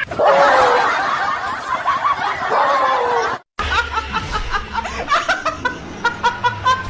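A dense, noisy stretch cut off abruptly, then after a moment of silence a snickering laugh in short, quick, repeated bursts.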